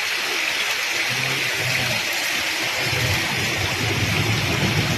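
Heavy rain pouring down in a steady hiss. About three seconds in, a low engine rumble joins it.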